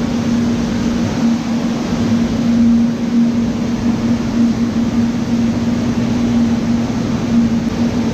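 A boat engine running steadily, a constant hum over an even wash of noise.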